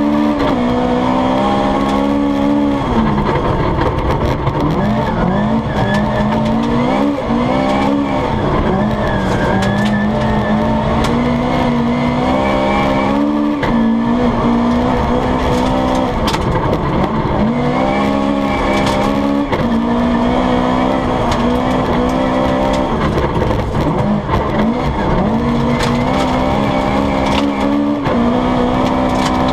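Toyota Corolla GT rally car engine at full effort, heard from inside the cabin, over the rumble of its tyres on a snowy road. It holds a high, steady pitch, dropping and climbing again several times, around three seconds in, twice near eight seconds, near eighteen and in the last few seconds.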